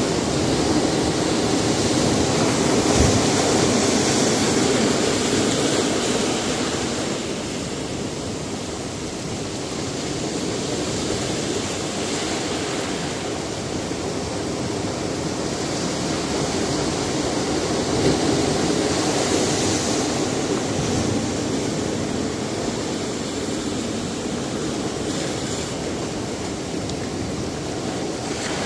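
Sea surf breaking on a rocky shore, a steady wash of water noise that swells with each wave, larger swells about 3 s and 18 s in.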